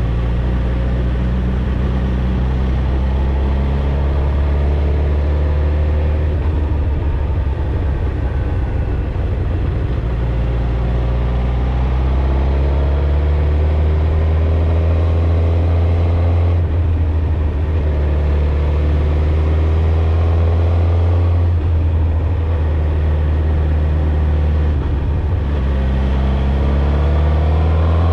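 Suzuki GSX-R1000 inline-four engine and exhaust running under way at a fairly steady cruise, the note rising and dipping gently as the revs shift.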